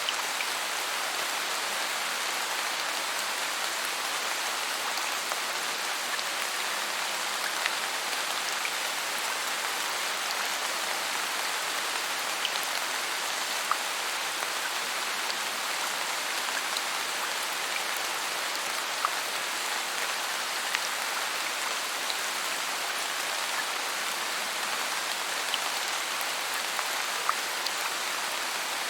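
Steady rain falling: an even hiss, with a few louder single drop ticks scattered through it.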